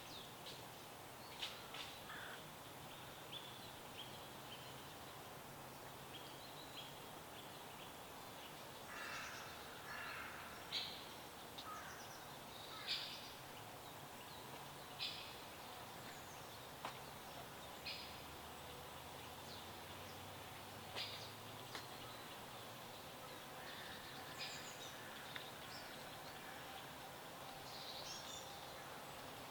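Wild birds chirping in short, scattered calls, a chirp every second or two, over a faint steady background hiss.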